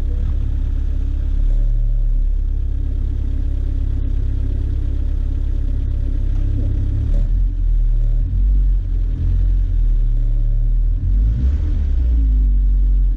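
An off-road 4x4's engine running under load as it drives through deep snow, with a heavy low rumble heard close up from the bonnet. From about seven seconds in, the engine note rises and falls unevenly as the throttle changes.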